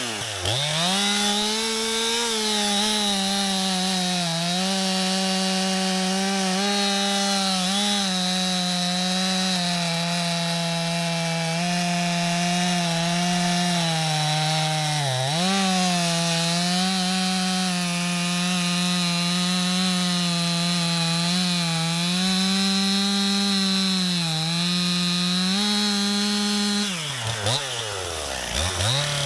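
Stihl two-stroke chainsaw cutting through a log at full throttle, its pitch sagging briefly a couple of times as the chain takes the load. Near the end the throttle is let off, the engine drops almost to idle, then it revs up again.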